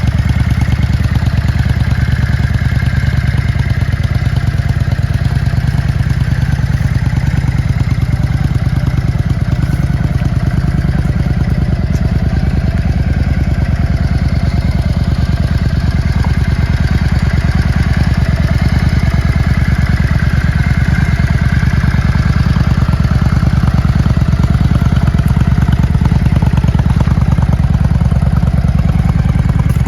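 Yamaha XVS650 Dragstar's air-cooled V-twin engine idling steadily.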